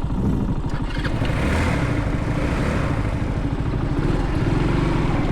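Mini bike engine running with a fast, even firing pulse. A hiss of noise swells about a second in and fades again.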